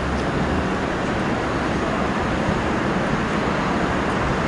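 Comeng electric suburban train drawing slowly into a station platform: a steady running noise of wheels on rails and traction equipment.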